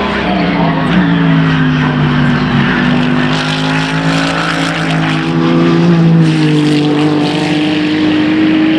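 Race car engines running at high revs, their pitch dropping about a second in, then holding steady and rising slightly near the end.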